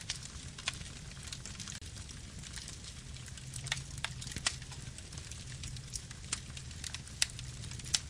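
Wood campfire burning: a steady low rumble of flame with irregular crackles and sharp pops from the burning wood, a few louder pops around the middle and near the end.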